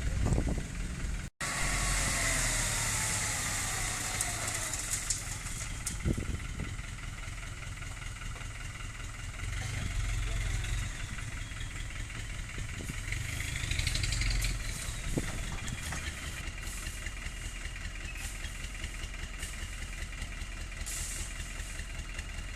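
Dump truck's diesel engine running during unloading, its pitch sliding down after a couple of seconds and swelling up and back down twice later on. A brief cut-out in the sound about a second in.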